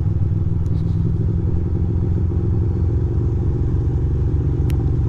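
A 2006 Ducati Monster 620's air-cooled V-twin engine running steadily at low revs, with a couple of faint ticks.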